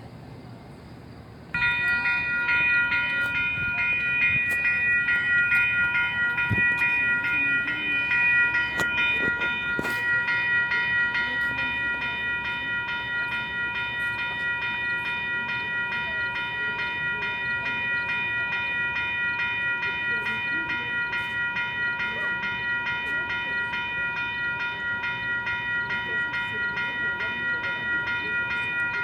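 Commuter train sounds, with a low rumble. About a second and a half in, a loud, steady, high-pitched ringing tone of several pitches starts suddenly and holds without a break.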